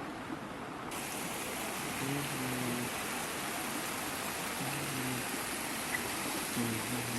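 Floodwater rushing and flowing, a steady hiss that suddenly grows brighter about a second in. Faint low tones come and go underneath.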